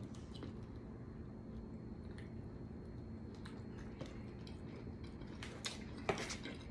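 Faint chewing of a mouthful of soft shrimp taco, with a few sharper clicks near the end.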